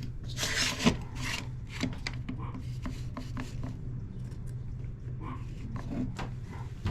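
Wooden chair parts being handled and shifted against each other: a short scraping rub about half a second in, then scattered light knocks and clicks, over a steady low hum.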